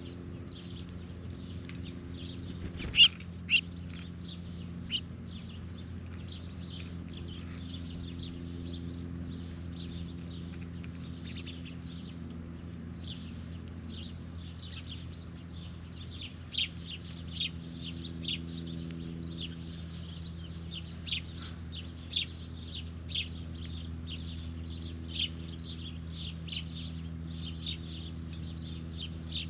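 Birds chirping and calling in many short, repeated chirps over a steady low hum, with a sharp loud click about three seconds in.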